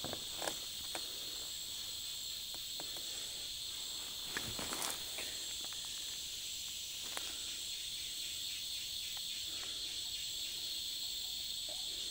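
Insects chirring in a continuous high-pitched drone, with a few faint knocks and rustles, the clearest about half a second in and around four to five seconds in.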